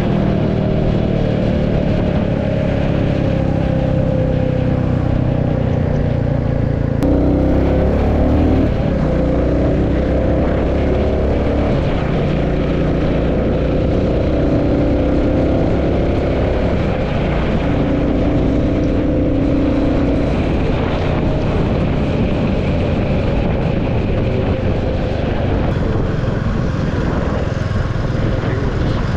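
Royal Enfield Classic 350's single-cylinder engine and exhaust running while the bike cruises, the engine note drifting up and down in pitch with throttle and speed, with a marked change in the note about seven seconds in.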